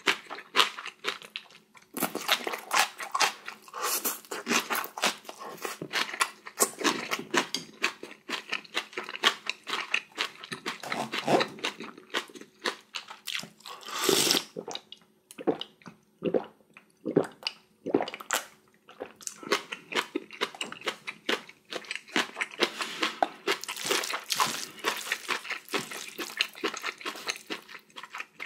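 Close-up mukbang eating sounds: chewing and crunching mouthfuls of spicy bibimbap, a dense run of irregular wet clicks with a few louder bursts.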